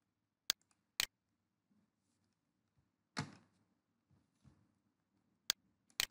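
Computer mouse clicks: two sharp clicks about half a second apart near the start and two more near the end, with one softer, brief noise a little past the middle.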